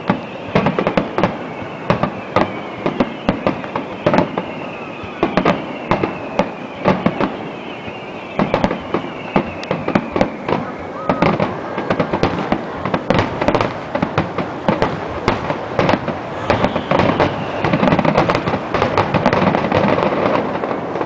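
Aerial fireworks going off in a dense barrage, many sharp bangs and crackles in quick succession, growing denser in the second half. Long whistles fall slowly in pitch in the first half.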